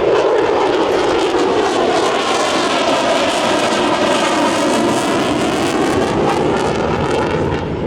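Jet noise from an F-35B's single F135 turbofan in afterburner as the fighter makes a low, banked pass. It is a loud, steady roar whose tone sweeps down and then back up as the aircraft goes by.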